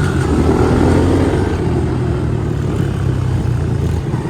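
Small motorcycle engine running, its pitch gliding in the first second or so and then holding steady.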